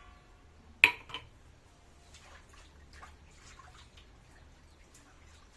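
Pot of goat meat cooking, with faint scattered crackles and drips from the pot. A single sharp clack, the loudest sound, comes about a second in.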